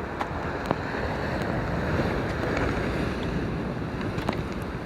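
Sea waves washing against rocks, swelling and easing, with wind buffeting the microphone and a few sharp ticks.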